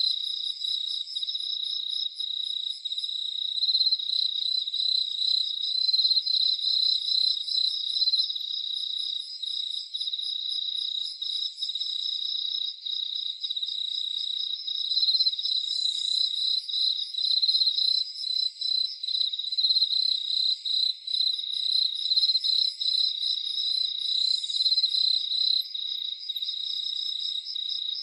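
A dense chorus of crickets chirping steadily at high pitch, with a second, higher and fainter series of rapid pulses that comes and goes every few seconds.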